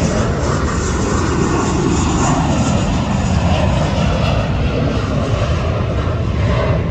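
Fixed-wing airplane taking off, its engines at takeoff power making a loud, steady noise.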